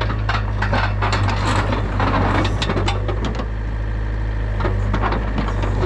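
Yanmar VIO50 mini excavator's diesel engine running steadily under many irregular clanks and knocks as the machine drives down off its trailer.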